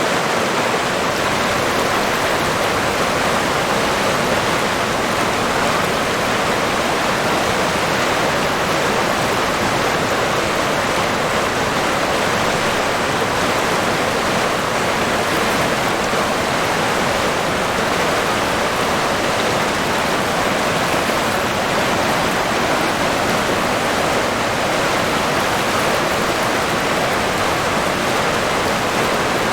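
River water rushing and splashing, a steady even rush with no breaks or changes.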